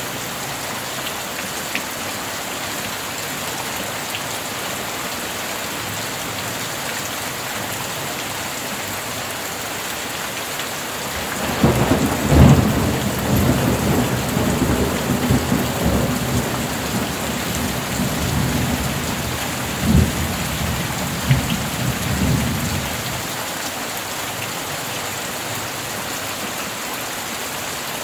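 Steady heavy rain with a thunderclap that breaks in sharply about twelve seconds in, then rolls and rumbles for about ten seconds, with two more cracks near the end of the roll.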